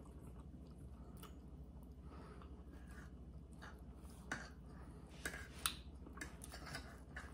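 Faint eating sounds: chewing and mouth noises with scattered small clicks and ticks, a few sharper ones about four to six seconds in.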